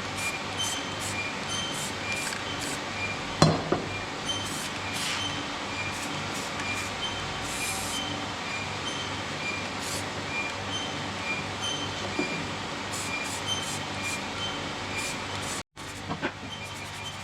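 Repurposed old washing machine running steadily, with a short clink about every 0.7 s and a single sharp knock about three and a half seconds in. The sound cuts off abruptly near the end.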